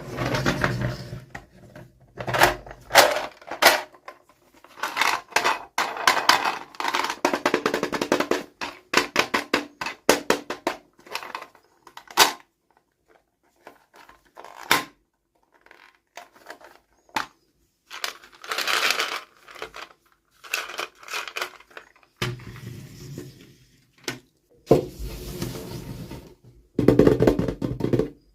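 Toy packaging being handled and opened: plastic and cardboard crinkling and tearing, with taps and knocks, in irregular bursts separated by short pauses.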